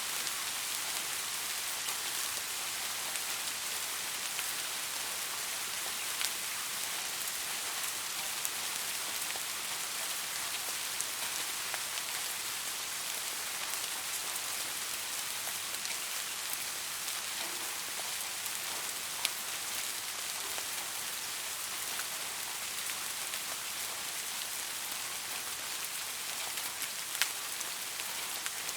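Steady rain falling, an even hiss with a few separate drops ticking louder now and then.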